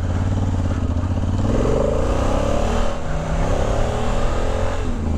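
Honda Africa Twin's 998 cc parallel-twin engine pulling hard under throttle, its pitch climbing steadily for a few seconds as the bike accelerates.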